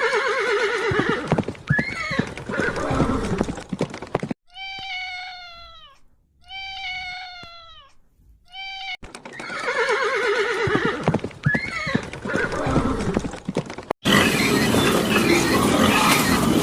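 A horse-like whinny with a shaky, falling pitch. Then a clean series of short calls, each falling in pitch, runs for about four seconds, and the whinny is heard again. A different, noisier animal sound takes over near the end.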